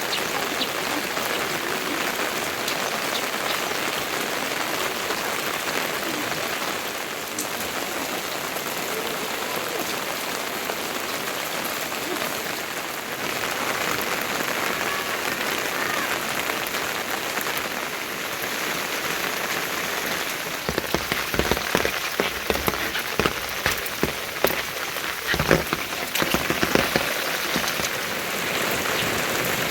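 Steady rain falling on surfaces. From about two-thirds of the way in, a run of irregular knocks and thumps sounds over the rain for several seconds.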